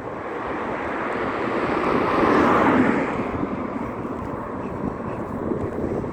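A motor vehicle driving past, its noise swelling to a peak about two and a half seconds in and then fading.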